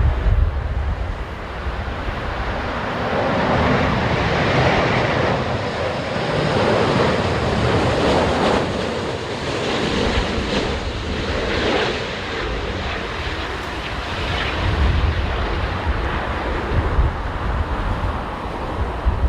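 Airbus A350 jet engines on landing approach, a broad rush that swells a few seconds in and eases near the end. Gusty crosswind buffets the microphone with a low rumble throughout.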